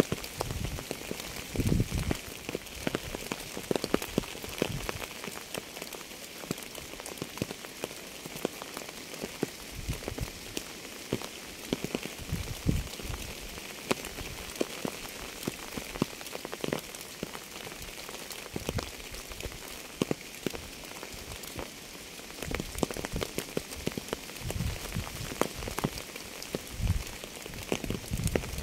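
Steady rain with many irregular, sharp drop impacts on a surface over an even hiss. Low, dull thuds of heavier drops come often near the start and end and thin out in the middle.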